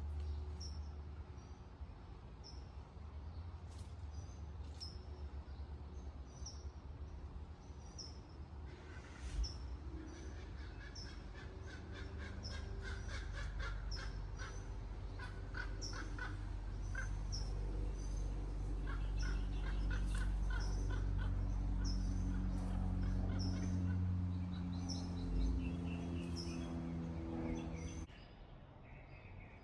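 A bird repeats a short, high chirp about once a second over a steady low rumble. From about nine seconds in, a busier run of rhythmic pulses and long held tones joins it, and it all drops away sharply near the end.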